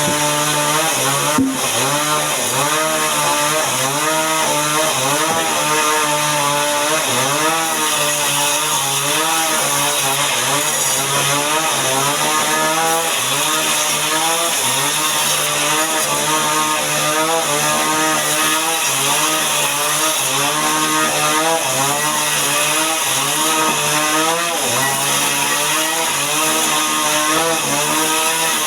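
Chainsaw running continuously while ripping timber into boards, its engine pitch rising and dipping over and over as the bar bites and eases in the cut.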